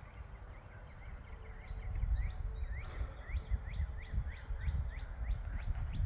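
A bird calling outdoors in a rapid series of short rising chirps, about three a second, starting about a second and a half in. Under it runs a low, uneven rumble on the microphone.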